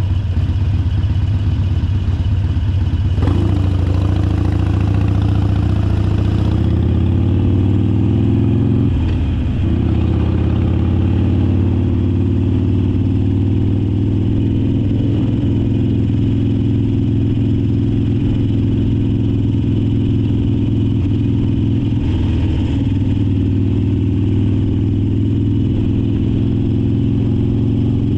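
Harley-Davidson Sportster Forty-Eight's 1200 cc air-cooled V-twin running steadily, its note changing abruptly about three seconds in and again about nine seconds in.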